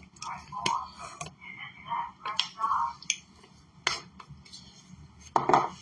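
Pumpkin pie spice being shaken and tapped from its container over the pan: scattered sharp clicks and soft rattling, with one louder knock near the end.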